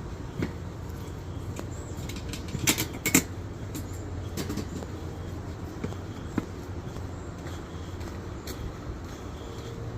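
Footsteps on a mountain trail: a few irregular sharp scuffs and clicks, the loudest pair about three seconds in, over a steady low rumble.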